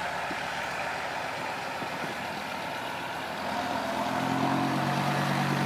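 Heavy diesel engine running steadily; about three and a half seconds in, a deeper steady hum comes in and the sound gets louder, as the machine works harder or comes closer.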